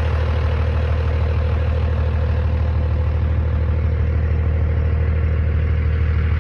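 Old truck's engine running steadily while driving, with a constant low drone and road noise that does not change in pitch.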